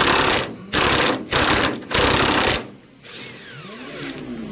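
Power tool run in four short bursts, chipping sound deadening off the underside of a car body. It stops about two and a half seconds in, leaving a quieter stretch with faint falling tones.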